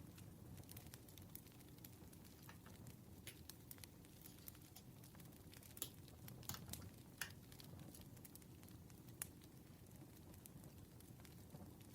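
Campfire crackling: irregular sharp pops and snaps over a soft low rumble of burning wood, a few pops louder than the rest.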